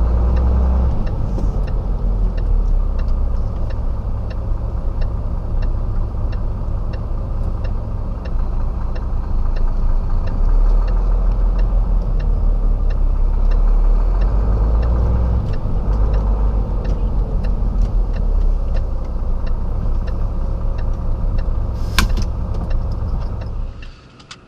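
Diesel engine of a 26-tonne Renault rigid lorry running steadily with a low rumble, with a single click about 22 seconds in. The engine sound drops away just before the end.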